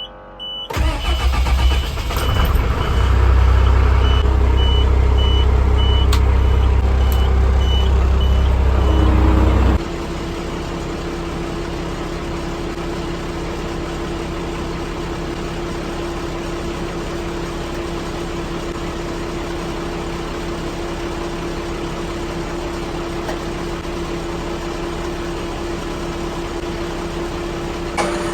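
A truck engine cranks and starts about a second in and runs loud for about nine seconds while a dash chime beeps about twice a second. Near ten seconds it drops abruptly to a quieter, steady run with a steady whine over the engine.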